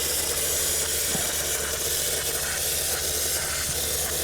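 Aerosol can of solvent cleaner spraying steadily through its extension tube, a continuous hiss, flushing aluminum drilling shavings out from under the camshaft lobes.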